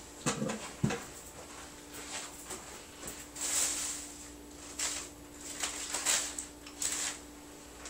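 Intermittent rustling and light handling noises, with a few short hissy rustles between about three and seven seconds in, over a faint steady hum.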